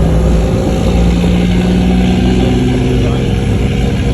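Fishing boat's engine running steadily under load, its pitch edging up a little about a second in.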